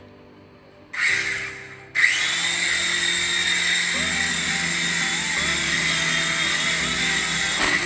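Toy RC helicopter's small electric rotor motor whirring: a short burst about a second in, then running steadily at high speed from about two seconds in, with a high whine.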